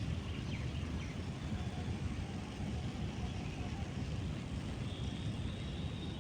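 Steady outdoor rumble, a low noise haze like wind or distant traffic, with a couple of faint high bird chirps in the first second and a thin high whine near the end.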